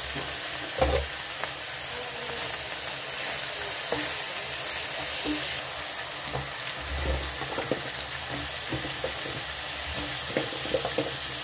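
Onion-tomato masala sizzling steadily in hot oil in a frying pan, with a sharp knock about a second in and scattered soft thuds and clicks as chunks of raw potato are dropped into it by hand.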